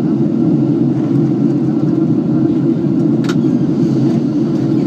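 Airliner cabin noise: the steady low rumble of engines and airflow heard from inside the passenger cabin during descent, with a faint brief click about three seconds in.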